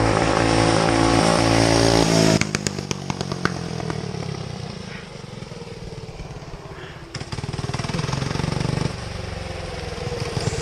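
Go-kart's Briggs & Stratton Animal single-cylinder four-stroke engine revving high and rising in pitch. About two seconds in, the throttle is chopped and it lets off a rapid string of sharp backfire pops, sounding like pistol shots. It then runs on at a lower, rougher putter before building up again.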